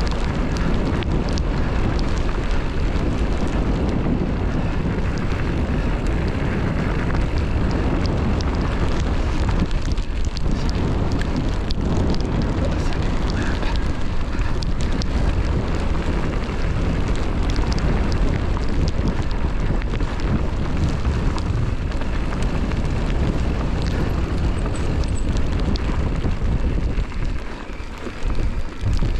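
Strong wind buffeting a GoPro's microphone on a mountain-bike descent, a heavy low rumble with many scattered clicks and rattles from the bike on the rough trail. The wind eases briefly near the end.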